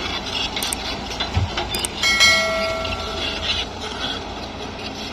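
A vehicle horn sounds once about two seconds in, a single held note lasting about a second, over a steady rumbling background.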